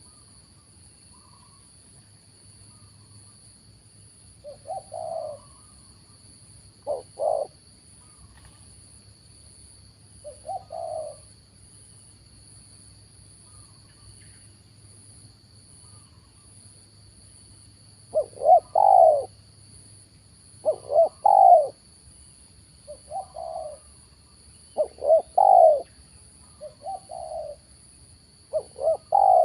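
Spotted doves cooing: a few scattered coo phrases at first, then a quicker run of repeated coos in the second half.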